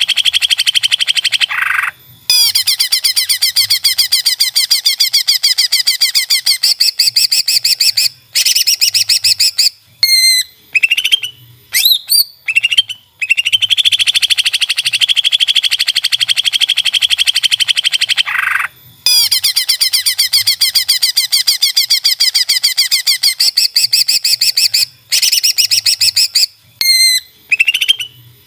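Greater green leafbird (cucak ijo) singing a loud, fast rattling trill that runs for several seconds at a time. The trills are broken by brief pauses and by sharp upward-sweeping whistled notes around ten to thirteen seconds in and again near the end.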